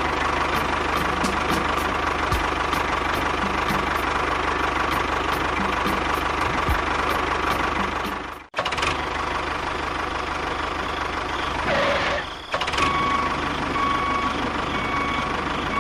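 Steady engine-like running sound of a miniature construction vehicle. It drops out abruptly about eight and a half seconds in, then resumes. From about thirteen seconds, short beeps repeat roughly once a second, like a reversing alarm.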